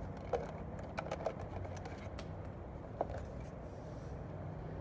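Battery charger clamps and cables being handled: a handful of sharp clicks and clacks at uneven intervals, over a low steady hum.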